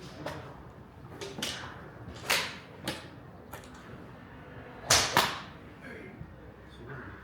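Golf club swishing sharply through the air in swings, several short whooshes with the loudest two close together about five seconds in.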